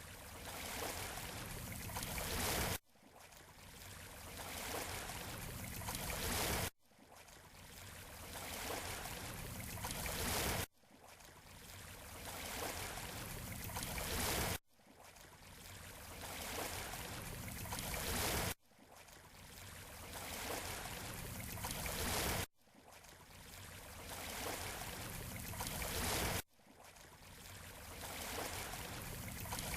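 Sea waves washing on a beach, as a short recording looped over and over: each pass swells up and then cuts off suddenly, about every four seconds.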